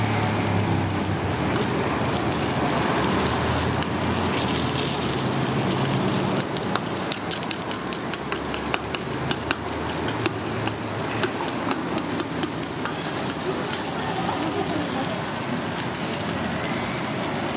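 Takoyaki batter sizzling steadily in a hot cast-iron takoyaki pan, with many sharp clicks and pops through the middle stretch.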